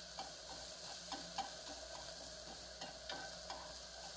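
Julienned carrots sizzling faintly in olive oil in a nonstick frying pan while being stir-fried with chopsticks, which tick against the pan now and then.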